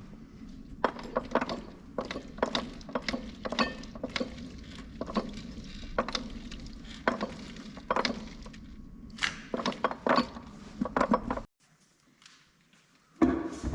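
Steel synchro and gear parts of an Eaton Fuller transmission clinking and clicking against each other as they are handled during teardown: irregular sharp metallic clicks, dozens of them. The sound drops out about eleven and a half seconds in and picks up again near the end.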